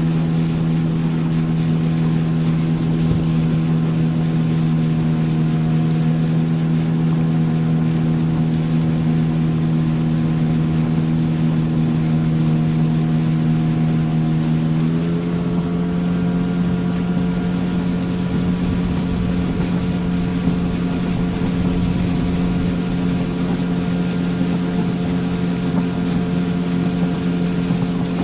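Motorboat engine running steadily under way, with a hiss of water and wind over it. About halfway through, the engine note steps up slightly in pitch and holds there, as the engine speeds up.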